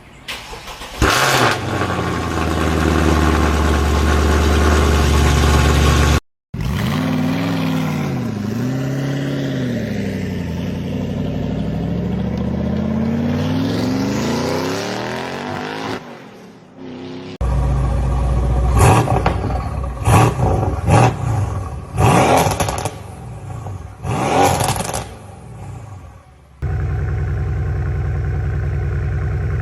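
Mercedes-AMG C63 exhaust, V8 and inline-four, in several short cut-together clips. The engines flare up and settle into a steady idle, rev up and down in smooth sweeps, give a series of sharp throttle blips, then idle steadily again.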